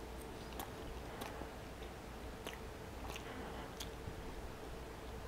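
Close-miked chewing of a mouthful of pesto penne pasta: faint, soft wet mouth clicks coming every half second to a second.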